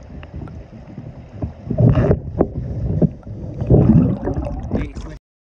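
Irregular sloshing and splashing of river water, loudest about two seconds in and again around four seconds, with a few sharp knocks and wind buffeting the microphone; the sound cuts off abruptly near the end.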